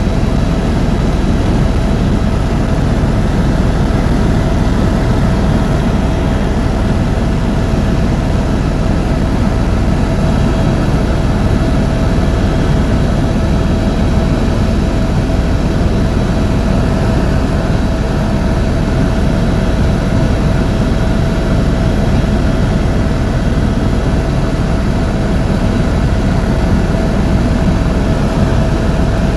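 Helicopter in flight: the engine and rotors keep up a steady low rumble with a constant whine over it.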